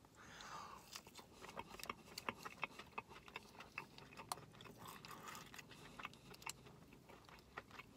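Faint eating sounds: a bite of fried chicken tender being chewed, with many scattered small wet mouth clicks.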